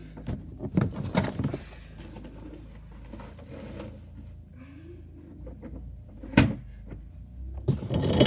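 Handling knocks and clicks from a toy garbage truck and its bins being worked, with one sharp knock about six seconds in. Near the end a louder, continuous rattling noise starts.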